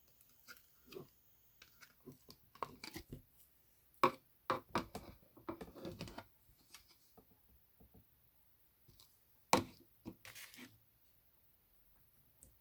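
Irregular small clicks, taps and rustles of objects being handled close up, with sharper knocks about four and nine and a half seconds in.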